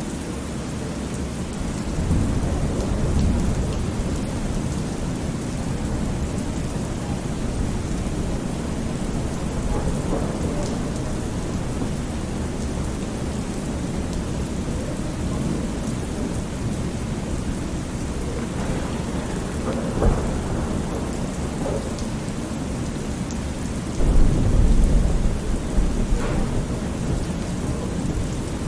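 Thunderstorm ambience: steady rain with rolling thunder. A low rumble comes about two seconds in, a short sharp crack about twenty seconds in, and a loud rumble starts suddenly near the end and lasts a few seconds.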